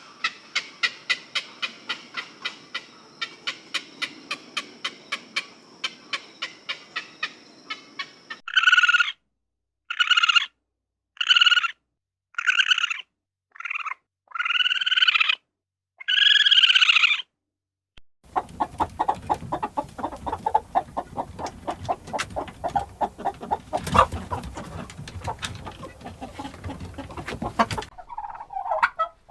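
Chickens: first a fast run of short clucks, then seven loud separate squawking calls about a second apart, and after a short pause a dense, rapid clucking chatter.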